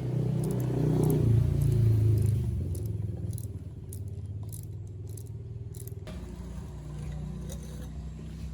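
A motor running steadily. It grows louder for about a second and a half shortly after the start, then eases back, with light metallic clicks and rattles on top.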